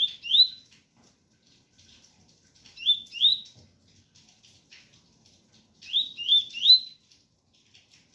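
Double-collared seedeater (coleiro) singing its 'tui-tui' song: three short phrases of two or three rising whistled notes, a few seconds apart, over a faint patter of rain.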